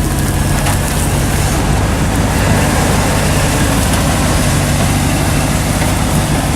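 Engine of a four-wheel-drive vehicle running steadily while driving in four-wheel drive, with a constant rush of driving noise.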